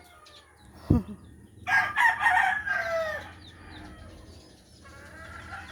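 A sharp thump about a second in, then a rooster crowing once: one call of about a second and a half that falls in pitch at the end.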